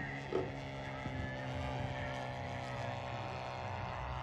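Electric motor of a radio-controlled model aircraft running with a steady whine.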